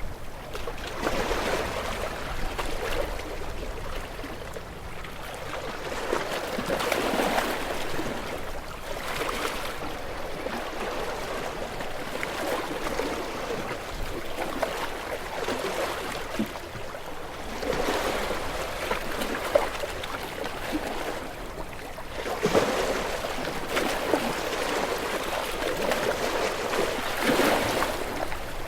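Gentle waves washing onto a shore, the surf swelling and falling back in surges a few seconds apart.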